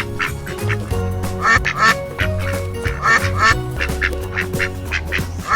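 Duck quacking repeatedly, the loudest quacks coming in pairs, over background music with a steady bass line.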